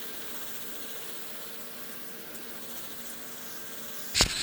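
Steady faint hiss with a faint hum, then a sudden knock near the end.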